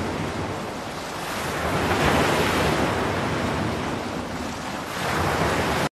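Ocean surf: a wash of breaking waves that swells about two seconds in and again near the end, then cuts off abruptly.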